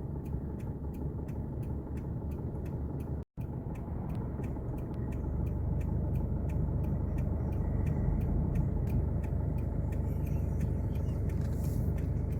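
Steady low rumble of a vehicle driving on the road, heard from inside the cabin, growing a little louder about five seconds in. The sound drops out completely for an instant about three seconds in.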